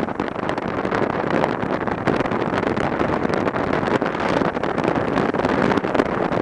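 Steady rush of wind over the microphone of a motorbike in motion.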